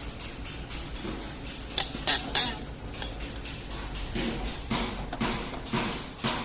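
Metal parts clinking and knocking against each other, as in handling engine parts and tools: a quick cluster of sharp clanks about two seconds in, a lighter tap around three seconds, and another sharp clank near the end.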